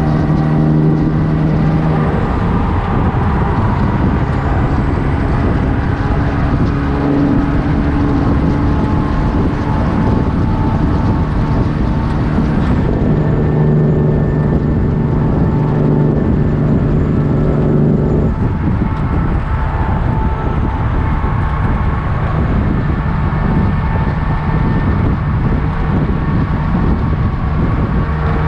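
Straight-piped Kenworth W900 truck's diesel engine running loud and steady, its exhaust note shifting pitch abruptly a few times: about 2 seconds in, 13 seconds in and 18 seconds in.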